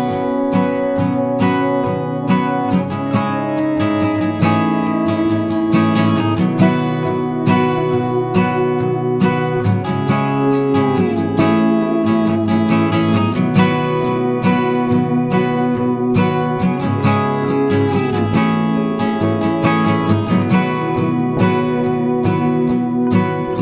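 Background music: an acoustic guitar piece, fingerpicked and strummed, with a few sliding notes.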